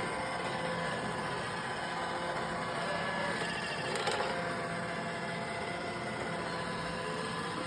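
Roomba i1+ robot vacuum running: a steady whirr of its suction and brush motors with a few steady tones in it, and a short clatter about four seconds in.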